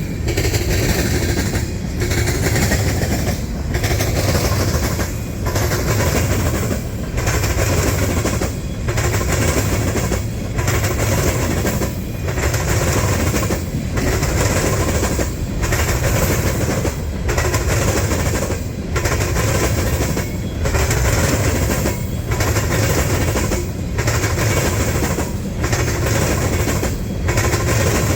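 Canadian National freight cars rolling over a railroad diamond crossing: a continuous clatter of steel wheels on the crossing. It dips briefly at an even beat, about once every 1.7 seconds, as each car goes by.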